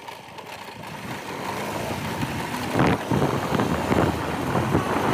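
Motorcycle running on the move, with wind noise on the microphone; the rumble grows louder about halfway through.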